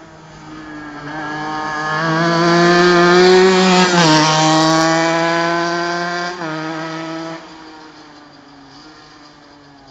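Honda NSR125 single-cylinder two-stroke engine of a homemade shifter kart running hard, getting louder toward a peak a few seconds in. Its pitch drops sharply twice, then it falls away to a quieter drone.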